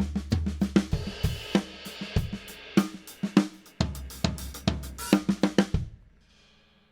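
Drum kit played in a fast fill built on right-left-left groupings of three, the hands moving the pattern around the drums and cymbals over bass drum. The playing stops a little before six seconds in and leaves the cymbals ringing away.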